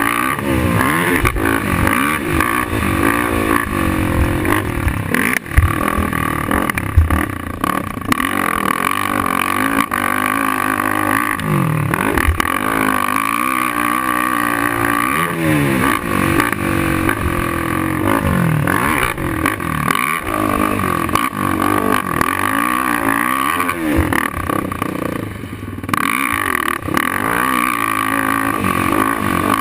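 Suzuki LT-R450 quad's single-cylinder four-stroke engine revving hard and falling off again and again as the throttle is worked and gears change around the track. The engine drops off briefly near the end before picking up again.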